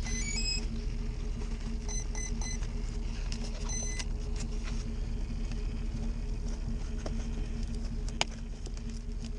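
The electronic speed controller of an electric ducted-fan RC airliner powering up as its 3-cell battery is connected. It plays a quick rising run of tones, then three short beeps about two seconds in, matching the pack's cell count, then a longer beep near four seconds as it arms. A steady low hum runs underneath, with scattered handling clicks later, one sharper near the end.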